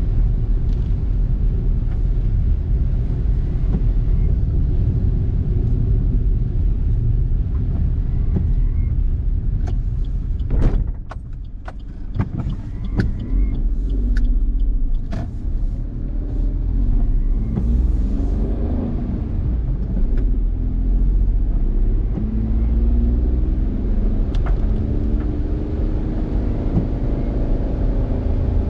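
Road noise of a car heard from inside while driving: a steady low rumble of tyres and engine. About eleven seconds in it drops for a moment with a few sharp clicks, then comes back with the engine's pitch sliding up and down as the car gathers speed again.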